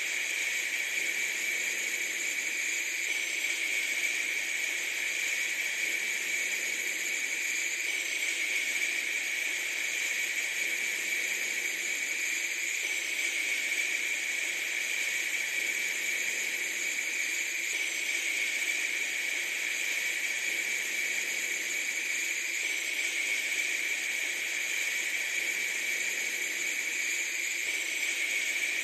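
A steady, even hiss that does not change or break, with a bright high edge and almost no low rumble.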